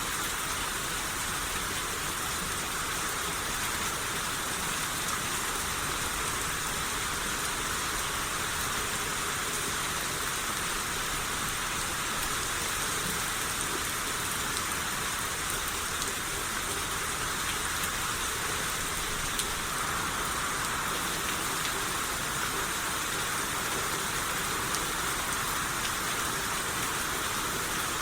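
Steady rain shower falling on surfaces: an even hiss with occasional faint drop ticks.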